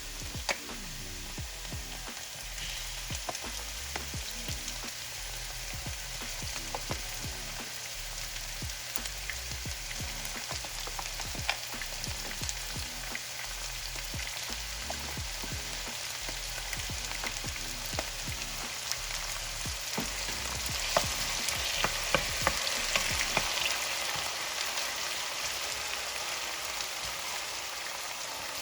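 Diced pineapple, celery and ginger sizzling in a hot pan while being stirred, the utensil clicking and scraping against the pan again and again. The sizzle grows louder about two-thirds of the way through.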